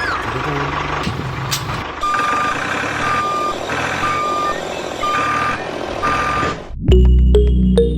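A truck's reversing alarm beeps five times, about once a second, over a low engine hum. Music starts near the end.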